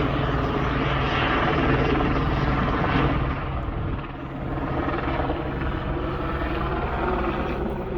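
TV news helicopter flying overhead, a steady drone with a low hum that eases briefly about four seconds in.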